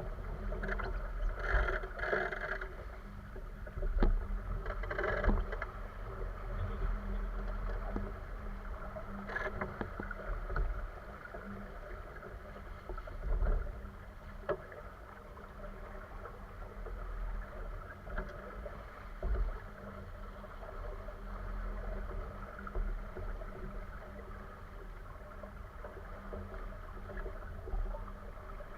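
Sailboat underway on a lake: a continuous wash of water against the hull with a low rumble, livelier splashes in the first few seconds and again about halfway through.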